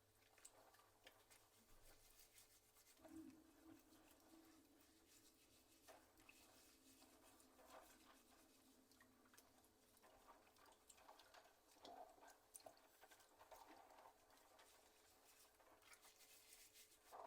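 Near silence, with faint scattered small clicks and taps and a faint low hum for a few seconds near the start.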